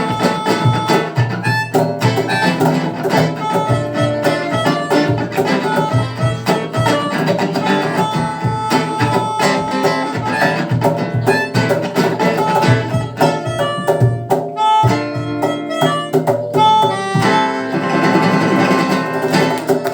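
Live rock band playing an instrumental passage: guitars over a steady drum beat, with no singing.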